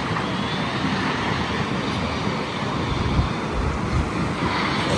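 Steady vehicle engine and traffic noise with a low rumble.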